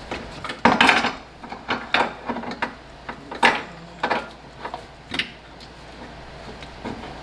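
Metal tools and parts clanking and clinking while an engine mount is worked out of an engine bay: a run of sharp knocks over the first five seconds, the loudest about a second in.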